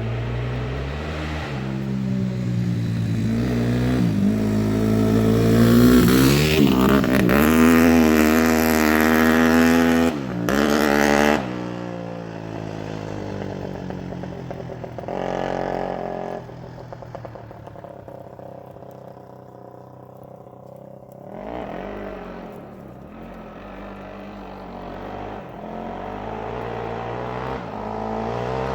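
Suzuki RM-Z250 four-stroke single-cylinder dirt bike engine being ridden: it revs up under throttle to a loud peak, drops off suddenly about eleven seconds in as the throttle closes, runs low and quieter, then picks up again near the end.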